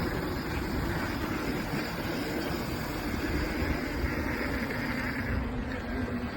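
Steady rolling noise of an electric mountain bike being ridden on a trail, with heavy wind rumble on the microphone and a faint low hum.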